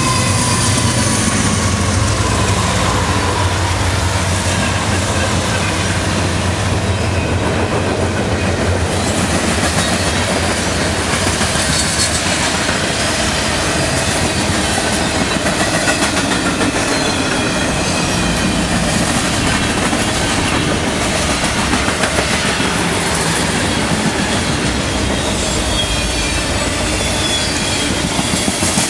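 Norfolk Southern freight train passing close by: the GE diesel locomotives' engines drone for the first several seconds, then the freight cars roll past, steel wheels clacking on the rails with faint high wheel squeals.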